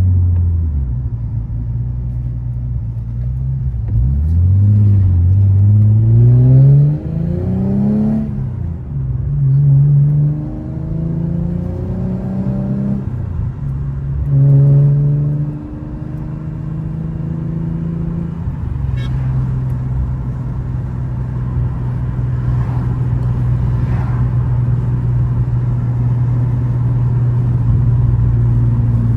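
Infiniti G37's 3.7-litre V6 engine under way: it slows down, then accelerates in three rising pulls with a drop in pitch at each gear change. About halfway through it eases off and settles into a steady cruise.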